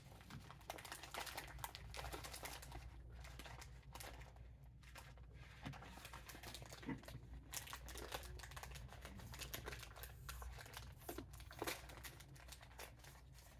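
Snack packet crinkling and rustling faintly as it is handled and opened, with many small crackles.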